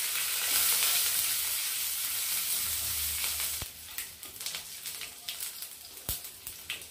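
Green chillies, curry leaves and mustard seeds sizzling in hot oil in a frying pan as a tadka, stirred with a silicone spatula. The steady sizzle drops suddenly about halfway through to a quieter crackle with scattered sharp ticks.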